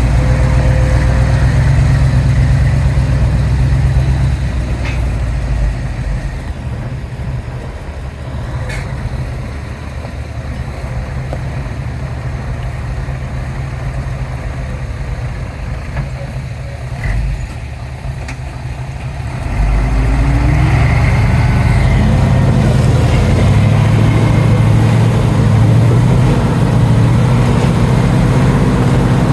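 Diesel engines of heavy earthmoving machinery running loud, then dropping to a lower, quieter run for about a dozen seconds before powering up again about two-thirds of the way through. A few short sharp knocks come in the quieter stretch.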